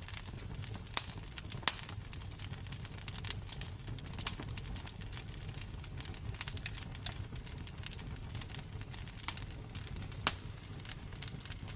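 Wood fire crackling in a fireplace: irregular snaps and pops, a few sharper ones standing out, over a steady low rumble.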